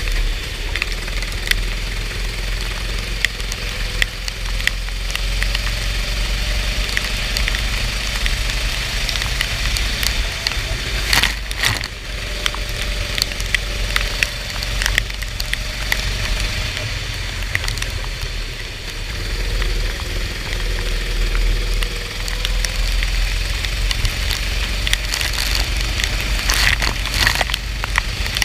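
Go-kart engine running through a lap on a rain-soaked track, under a steady hiss of water spray. Several sharp knocks come through, the loudest about 11 seconds in and two more near the end.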